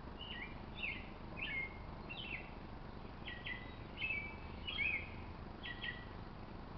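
A bird chirping: a loose series of short, varied chirps from just after the start to near the end, over faint steady outdoor background noise.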